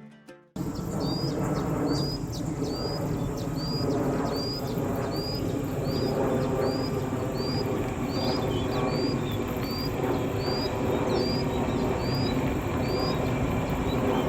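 A bird repeating a short, high, rising call about every three-quarters of a second, over a steady low background rumble.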